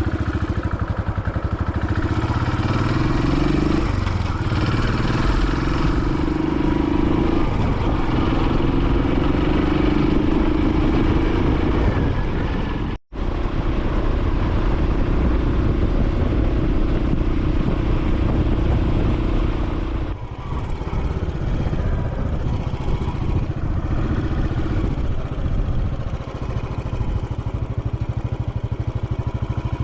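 Royal Enfield Classic 500's single-cylinder engine under way, rising in pitch three times as it pulls up through the gears, then holding a steadier tone. The sound cuts out for an instant about halfway through, and the engine note eases about two-thirds of the way in.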